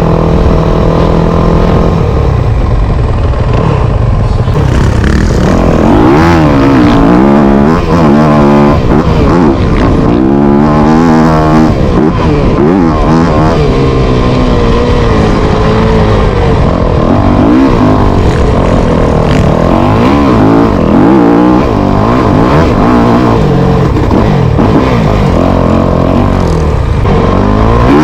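Motocross dirt bike engine revving up and falling back again and again as the bike accelerates and shifts around the track, loud.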